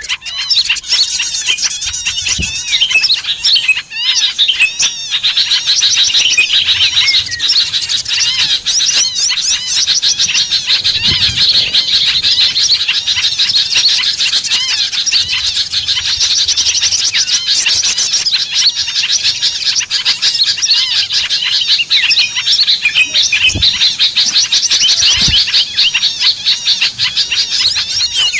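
A dense chorus of many small songbirds chirping and twittering without pause, quick overlapping calls. It is the kind of bird-luring (pikat) recording played to draw small birds in.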